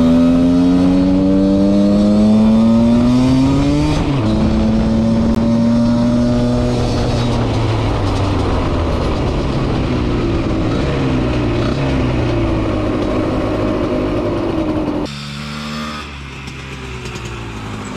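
Husqvarna SM 125 two-stroke single-cylinder engine revving under way. Its pitch climbs steadily, drops suddenly about four seconds in, then holds and rises and falls, and the sound gets quieter about fifteen seconds in.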